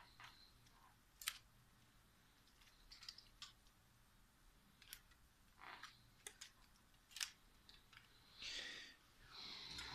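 Faint, scattered clicks and short scraping sounds of a phone and small repair tools being handled.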